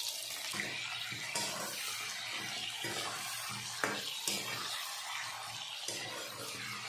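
Jackfruit chunks sizzling in hot oil in a metal kadhai while a steel spoon stirs and turns them, with a few sharp clicks of spoon on pan. The pieces are being fried until golden.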